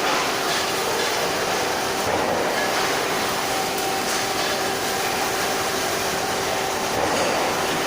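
Steady, loud machine noise with a constant hum.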